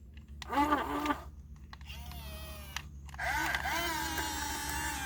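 Electric motor and hydraulic pump of a remote-control excavator whining in several short spells. The pitch dips and rises as the machine works, and it runs steadily from about three seconds in.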